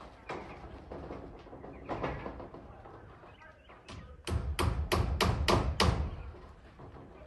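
A hammer driving nails during zinc roofing work: a quick run of about six sharp blows, roughly four a second, a little past halfway, with scattered knocks before it.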